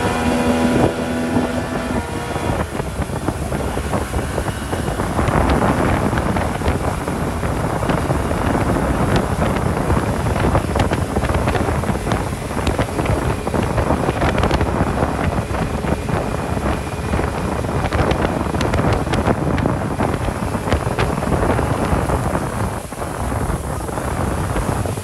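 Motorboat running at speed over the water, its engine drone buried in dense wind noise on the microphone, with many short knocks and splashes throughout.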